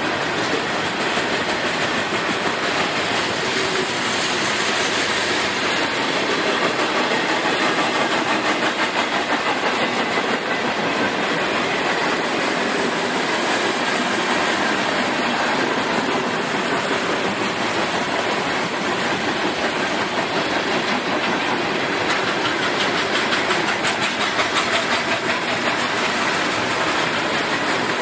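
A train's cars rolling steadily past, wheels clicking over the rail joints in a continuous rumble.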